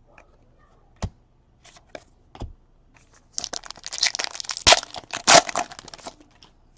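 A few light clicks of card handling, then a trading-card pack's foil wrapper torn open and crinkled for about three seconds.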